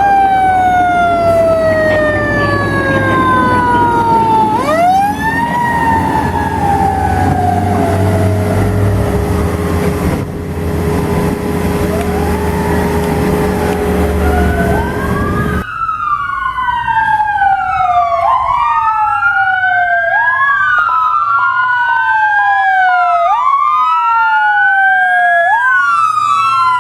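Fire truck sirens on a response run. First a siren rises quickly and then winds down slowly over several seconds, twice, over a heavy engine rumble. Then a siren wails up and down about every two and a half seconds.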